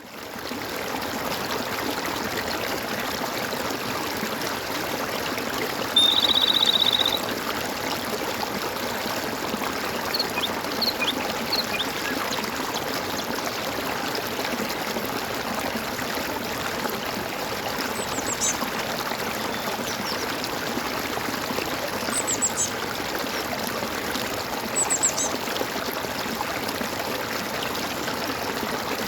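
Steady gurgling of flowing water, with birds giving short, high, downward-sweeping chirps now and then. About six seconds in, a buzzy trill lasting about a second is the loudest sound.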